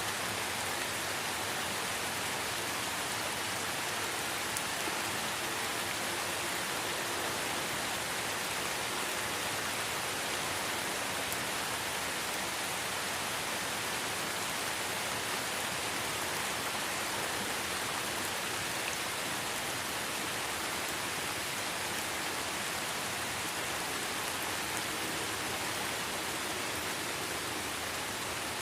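Light rain falling in a forest: a steady, even hiss of many small drops with no distinct single drips.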